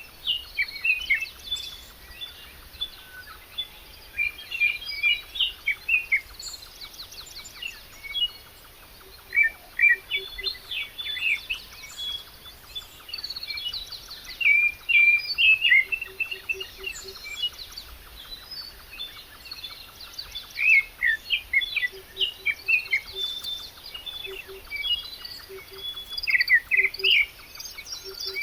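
Several wild birds chirping and singing, with quick overlapping chirps and trills throughout. From about nine seconds in, a low note repeats in short groups of two to four beneath them.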